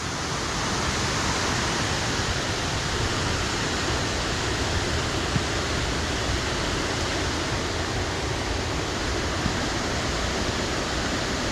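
Fast-flowing river in spate after heavy rain, its water rushing steadily.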